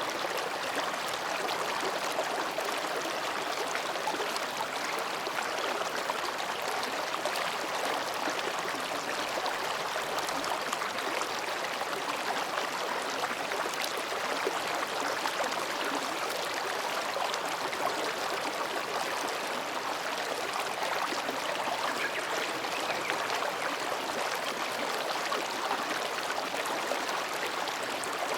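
Mountain stream flowing gently between rocks, a steady babbling rush of water.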